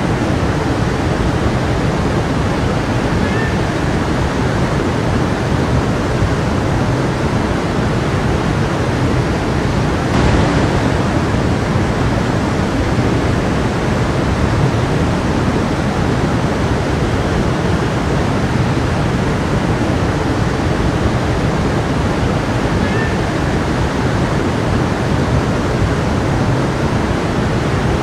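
A stream flowing steadily, an even, dense rush of water.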